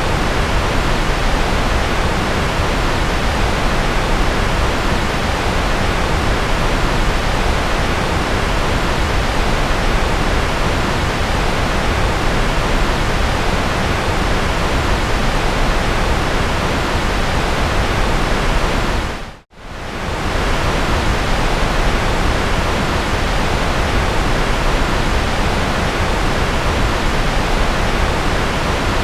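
Steady, dense electronic white noise hiss spread evenly across the whole range. About two-thirds of the way through it dips briefly to silence and comes straight back.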